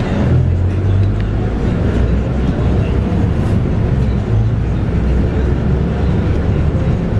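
Inside a Scania K230UB bus, its 8.9-litre five-cylinder Scania DC9 diesel engine driving through a ZF Ecomat automatic gearbox, a steady deep drone whose note shifts a few times.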